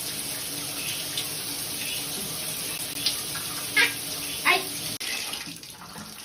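Water running steadily from a tap, with three short, sharp squeaks over it about halfway through. The flow weakens near the end.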